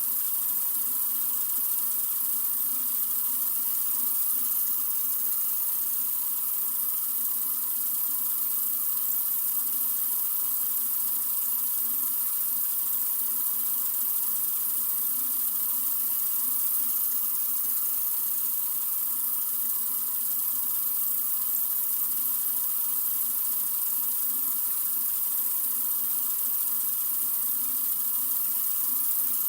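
Sink faucet running in a steady stream: an even, bright hiss of flowing water that does not change.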